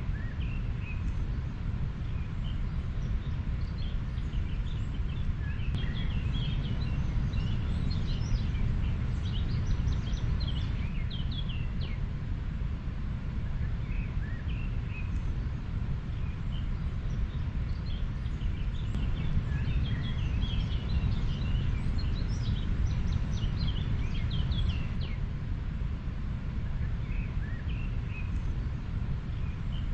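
River water flowing with a steady low rush, with small birds chirping over it in scattered bursts, busiest about a quarter of the way in and again past the middle.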